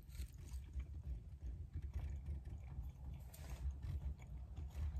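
A person chewing a mouthful of loaded fries with her mouth closed, faint irregular soft clicks and squelches, over a steady low rumble inside a car's cabin.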